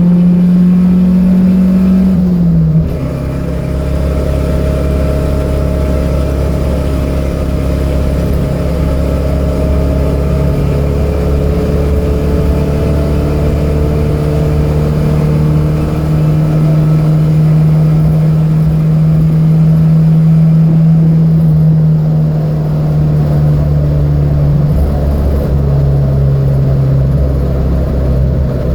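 Datsun B210 race car's engine running hard under load, heard from inside the car: a steady engine note that climbs slowly as the car gathers speed, with sudden drops in pitch about two and a half seconds in and again near the end.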